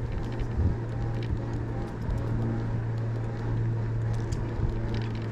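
Riding noise from an e-bike in motion: a steady low hum under road and wind noise, with a few faint ticks.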